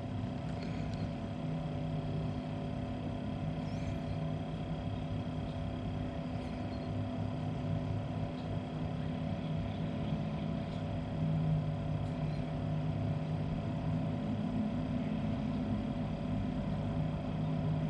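A 12 V compressor fridge running: a steady low mechanical hum with several held tones, one low tone fading in and out as the compressor speed settles after being switched to economy mode.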